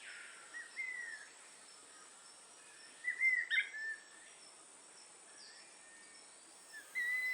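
Rainforest ambience: a steady high insect drone under short whistled bird calls. One call comes about a second in, a louder cluster around three to four seconds in, and another call near the end.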